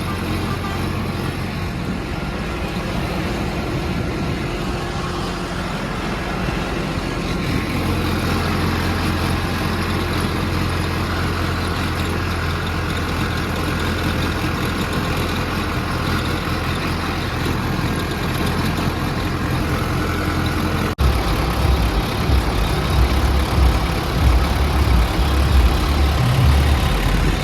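Diesel tractor engine running steadily with a low hum, pulling a loaded wood trolley. About 21 seconds in the sound breaks off abruptly and resumes louder and more uneven in the low end.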